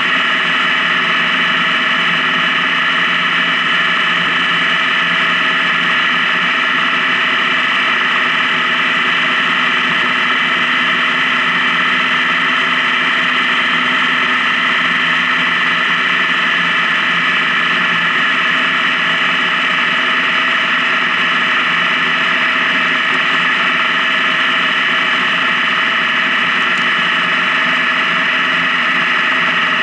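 Honda Gold Wing touring motorcycle cruising at a steady speed: an even, unchanging engine drone with road noise, no shifting or revving.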